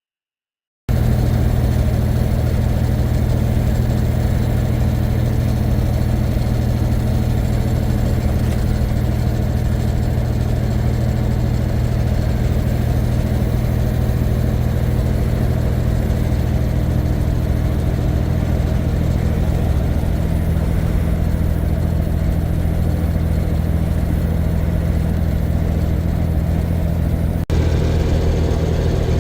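Heavy truck's diesel engine running steadily with an even low drone, broken once by a brief dropout near the end.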